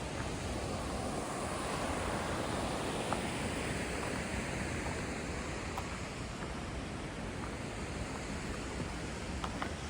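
Steady rush of the Skokomish River's rapids, an even wash of white-water noise that swells a little a few seconds in, with a few faint clicks.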